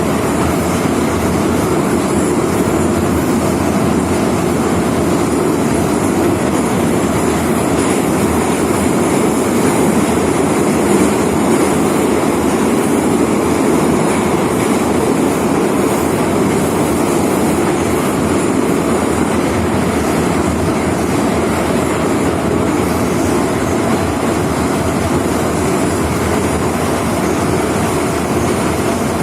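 Moscow Metro 81-717.5/714.5 'Nomernoy' electric train running at speed, heard from on board: a steady, loud rumble of wheels on rail and running gear that holds even throughout.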